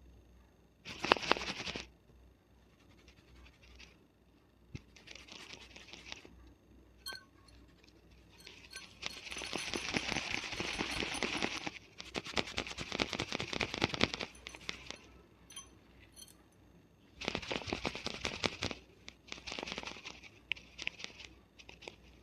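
Fingernails scratching a scalp and rubbing through hair, close up: several bursts of rapid scratching strokes a second or two long, the longest about nine seconds in, with quieter rustling between.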